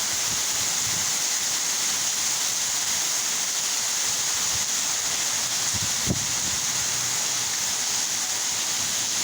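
Torrential rain pouring down, a steady, even hiss with no let-up, and one faint knock about six seconds in.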